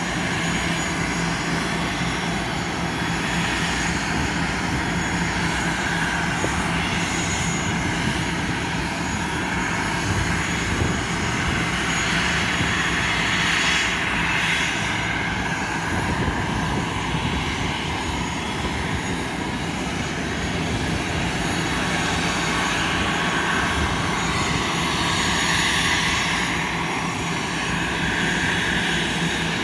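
Airbus A320 jet engines running steadily: a continuous rush with a steady low hum that swells slightly now and then.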